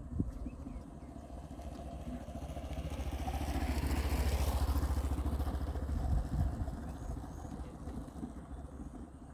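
A motor vehicle engine with a fast, even pulsing that grows louder to a peak about halfway through, then fades away.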